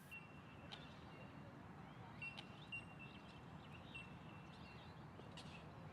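Faint outdoor ambience: a low steady background rumble with short, high, thin bird calls and a few clicks scattered throughout.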